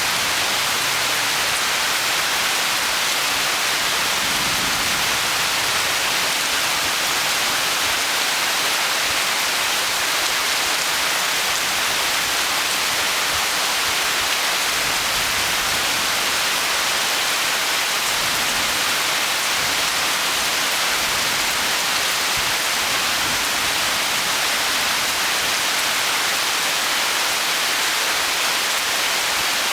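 Heavy tropical rain falling in a steady, even hiss, with no single drops standing out.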